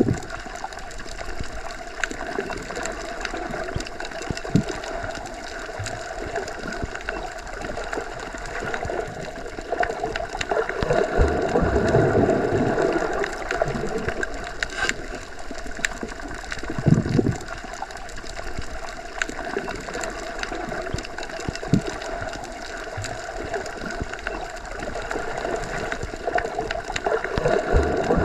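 Underwater ambience: a steady, muffled rumble and hiss as heard below the surface, swelling twice and broken by a few dull low knocks.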